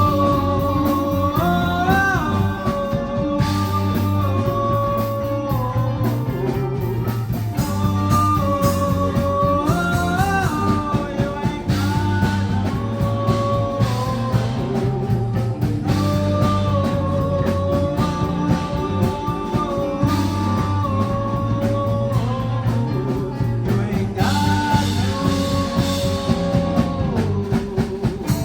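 Live rock band playing a song: drums and bass keep a steady beat under a bending melodic lead line.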